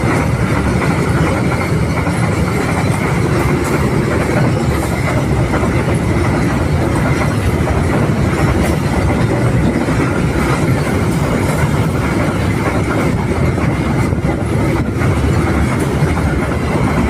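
A long freight train of about 30 wagons rolling past at close range: a steady rumble of steel wheels on the rails, with clicks over the rail joints and a faint high wheel squeal.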